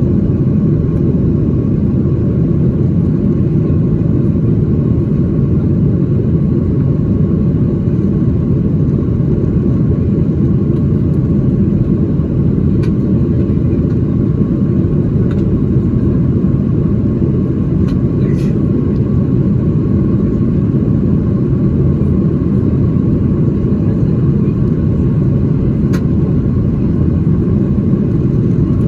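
Steady cabin rumble inside a Boeing 737-800 in flight: its CFM56-7B engines and the airflow make a deep, even drone with a faint steady hum above it and a few small ticks.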